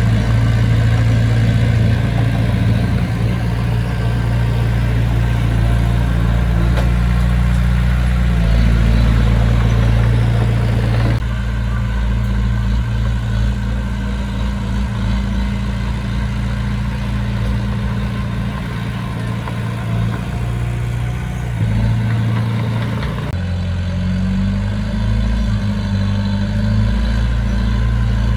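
Heavy construction machinery's diesel engine running steadily with a low, even note. The sound shifts abruptly about eleven seconds in and again at about twenty-three seconds.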